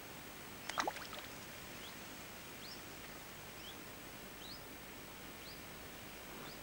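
A small bird calling short rising chirps, about one a second, over a steady hiss. A quick cluster of sharp clicks comes about a second in.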